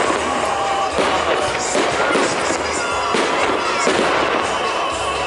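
Aerial firework shells of a festive salute bursting overhead, a sharp bang about once a second over a continuous wash of crackle and rumble.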